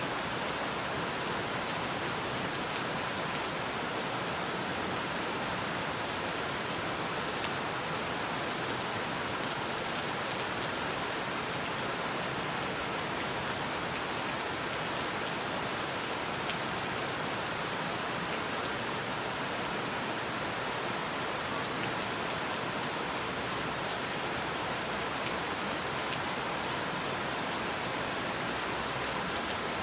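Steady rain falling: an even hiss with fine ticks of individual drops, unchanging throughout.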